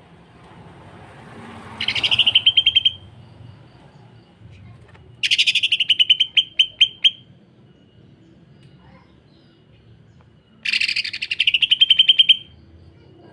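Green leafbird (cucak ijo) singing its rough 'sewing-machine' phrase: three bursts of rapid, evenly repeated harsh notes, each lasting one to two seconds, with pauses between them.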